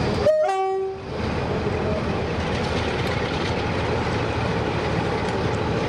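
Diesel locomotive running steadily, a loud even mechanical rumble, preceded about half a second in by a brief pitched tone that steps down in pitch.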